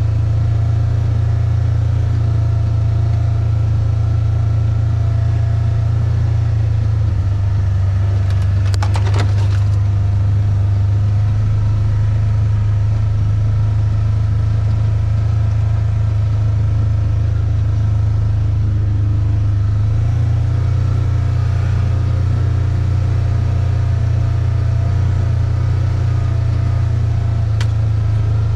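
A vehicle's engine running steadily with a low rumble, its note shifting slightly twice, with a brief rattle partway through.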